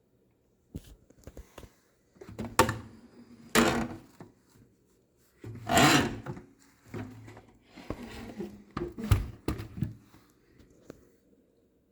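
Knocks, clatter and rubbing as an Electrolux Model XXX canister vacuum is handled, with the loudest clattering scrapes about two and a half, three and a half, six and nine seconds in.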